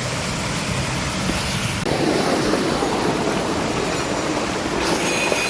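Steady rush of falling water from a waterfall, a dense hiss with no pitch that shifts in tone about two seconds in.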